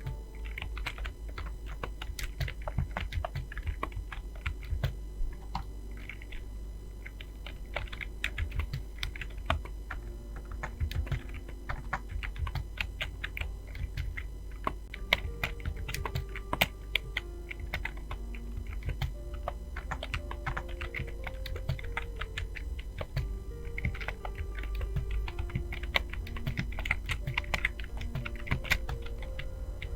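Fast typing on a computer keyboard: a steady stream of irregular key clicks. Faint music sits underneath, with short held notes.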